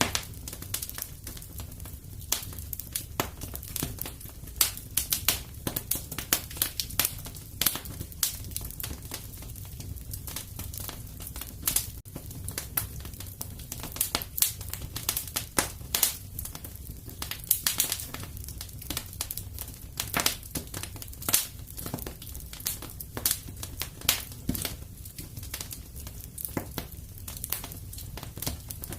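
Wood fire crackling in a fireplace: a continuous stream of irregular pops and snaps over a low, steady rumble.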